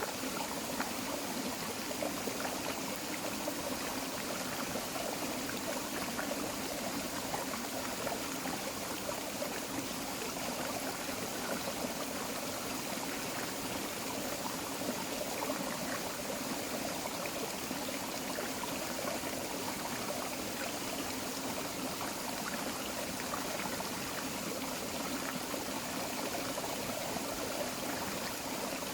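Tropical forest creek flowing: a steady, unbroken babble of running water.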